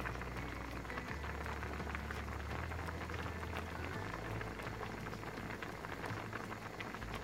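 Coconut-milk stew of stingray simmering in a wok, bubbling and crackling steadily while a metal ladle stirs through it, with a low steady hum underneath.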